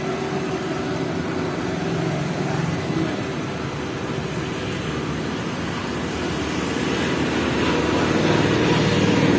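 Maruti Suzuki Alto K10's engine running steadily, growing louder near the end.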